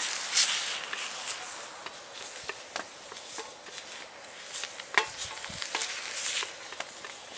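Food sizzling in a frying pan over a campfire while it is stirred, with scattered clicks and scrapes of the utensil against the pan.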